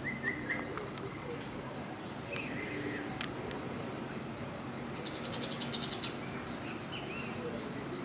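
Bird calls: a few short chirps near the start and another call near the end, with a quick high rattle around the middle, over a steady high-pitched insect trill.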